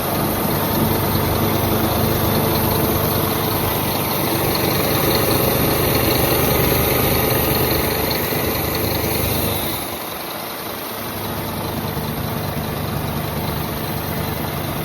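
Scania P320 truck's diesel engine running steadily, the sound dropping in level about ten seconds in.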